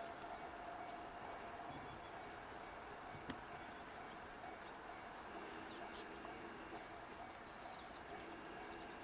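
Faint outdoor background with birds chirping now and then, and a single sharp click about three seconds in.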